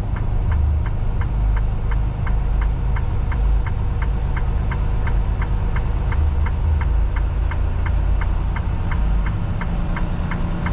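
Semi truck's diesel engine running low and steady in the cab, with the turn signal relay ticking evenly at about three ticks a second.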